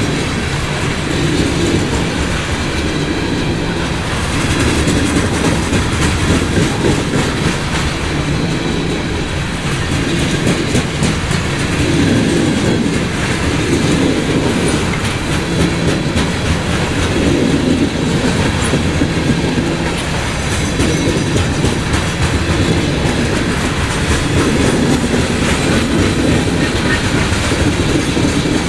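CSX freight train cars rolling past steadily, their wheels clacking over the rail joints in a repeating rhythm.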